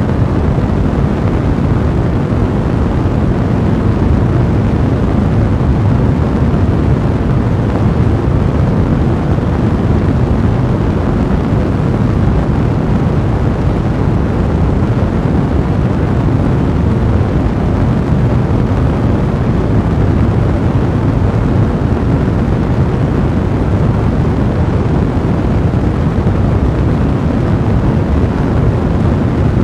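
A blazing fire burning steadily, a continuous low, even rumble without distinct crackles or pops.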